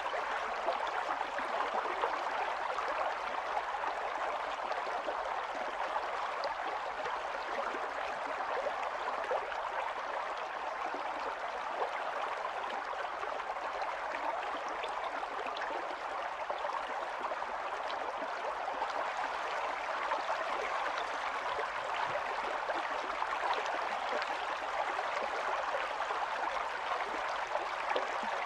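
Small stream of running water flowing and gurgling steadily over stones, a continuous bubbling splash with fine, quick flickers of droplets.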